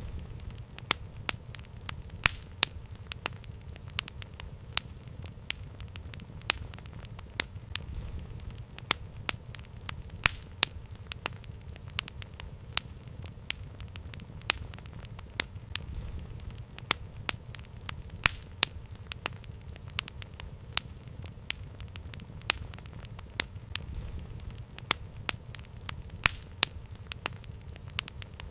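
Campfire burning: irregular sharp crackles and pops, a few each second, over a steady low rumble of the flames.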